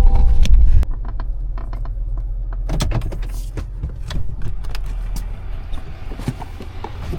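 A few notes of music end under a second in, leaving a low, steady vehicle rumble with scattered clicks and rattles.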